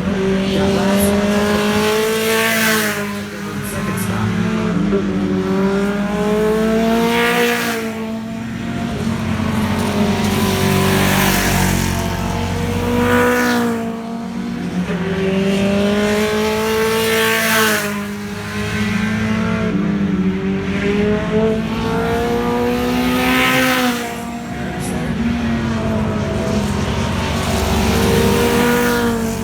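Pro-4 race cars racing past at speed, their engine note rising and falling in pitch as cars go by. The sound swells about every five seconds as the cars keep coming around.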